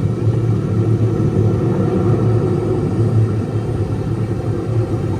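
Steady low rumble inside the cabin of a ride submarine under way, with no distinct knocks or changes.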